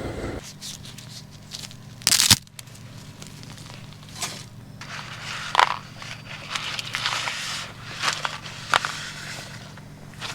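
Crinkling, crushing handling noises, like packaging being handled, with a loud brief rustle about two seconds in and a few sharp clicks; a low steady hum runs underneath. An engine drone cuts off about half a second in.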